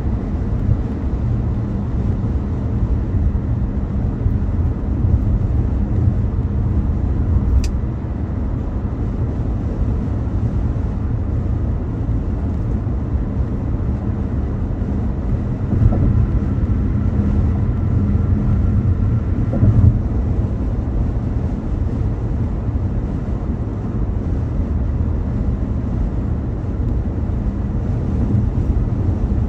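Steady road and engine rumble of a car driving on a highway. There is a brief sharp click about a quarter of the way in, and around the middle a faint steady tone lasts a few seconds between two soft thumps.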